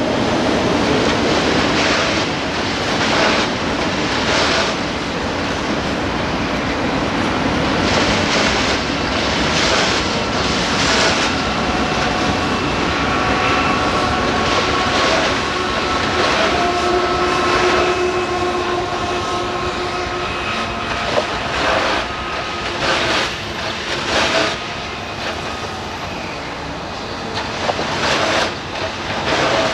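Freight train of autorack cars rolling past close by: a steady rumbling rush of wheels on rail with irregular clanks and clatters, and a diesel locomotive passing in the middle. Several thin, steady high-pitched squealing tones sound through the middle stretch.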